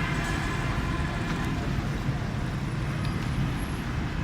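Steady low engine rumble with road traffic noise.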